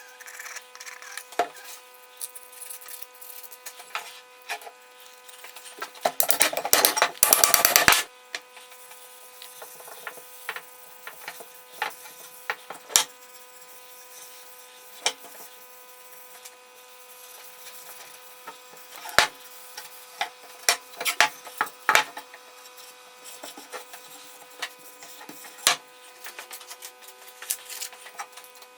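Hand tool scraping on wood: a loud run of quick scraping strokes about six seconds in, then scattered light knocks and taps over a faint steady hum.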